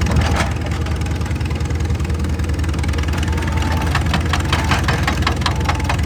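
Excavator's diesel engine running steadily, with a quick run of sharp knocks about four seconds in.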